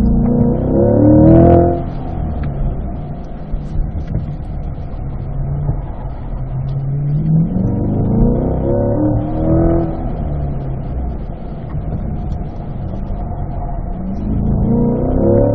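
Corvette C8's V8 heard from inside the cabin, held in second gear around an autocross course. Its revs climb and drop several times, rising near the start, twice around the middle and again near the end, over steady tyre and road noise.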